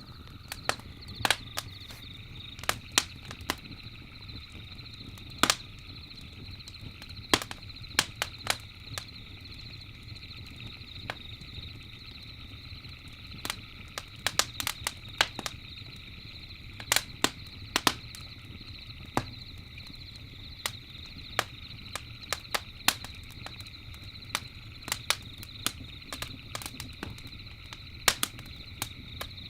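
Campfire crackling and popping: irregular sharp snaps from burning wood, several a second at times, over a steady low rumble of the flames and a steady high-pitched drone.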